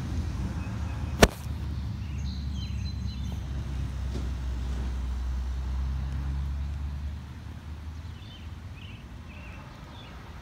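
Low, steady rumble of a motor vehicle that fades about seven seconds in, with one sharp click about a second in and a few faint high chirps.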